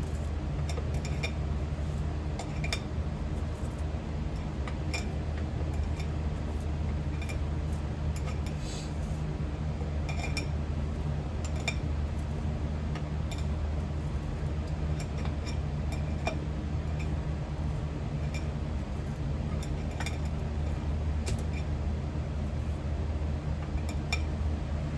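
Steady low hum of a running metal-melting furnace, with scattered light metallic clinks and ticks at irregular intervals.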